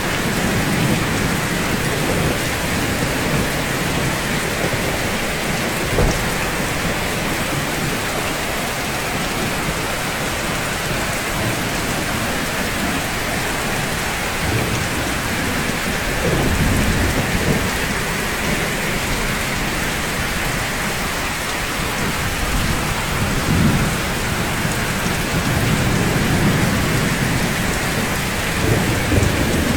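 Steady rain falling on rooftops, a continuous even hiss, with low rumbles of thunder swelling several times in the second half.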